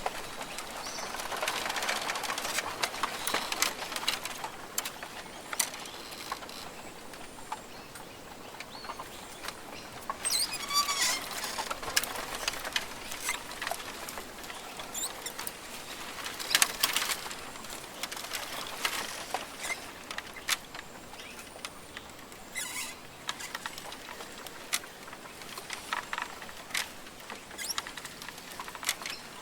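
Australian rainforest ambience: scattered rustling and clicking with short bird calls over a steady background hiss. The loudest burst comes about 17 seconds in.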